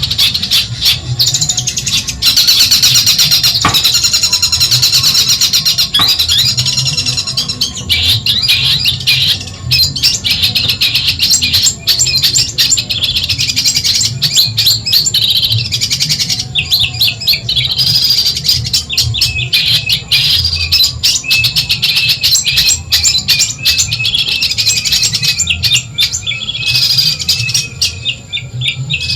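Long-tailed shrike (cendet) singing a fast, continuous, chattering song of rapid high notes, the kind of song used as a master recording to train other cage birds.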